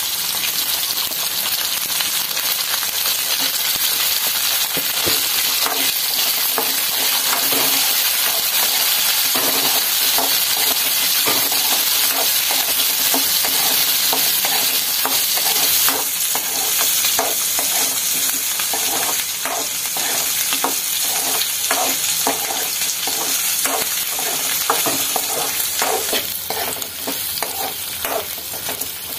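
Sliced ivy gourd, shallots and garlic sizzling in hot oil in a metal kadai while a steel ladle stirs and scrapes the pan, giving frequent metallic clinks over the steady sizzle. The clinks come thicker from about ten seconds in.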